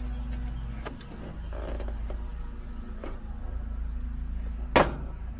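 Steady low mechanical hum, with a few light clicks and one sharp knock near the end.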